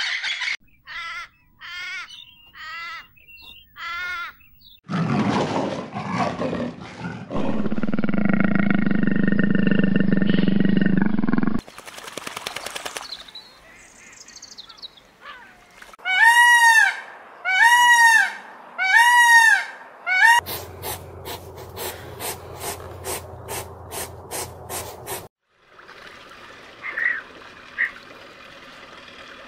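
A sequence of different animal calls, one after another. First come four short chirping calls, then a loud, long, low call of about six seconds. Later there are three strong rising-and-falling calls, followed by a quick run of regular clicks.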